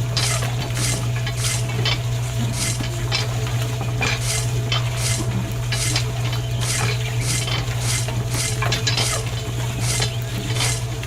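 A small motor hums steadily under a scraping rattle that repeats about twice a second, like something being turned or stirred in a drum.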